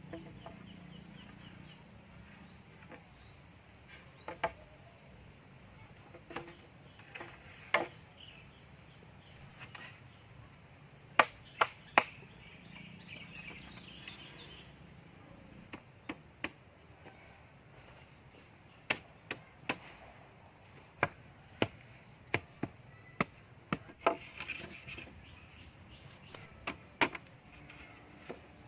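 Irregular sharp chopping strikes of a blade on wood, a couple of dozen spread through the stretch with uneven gaps, over faint high chirping in the background.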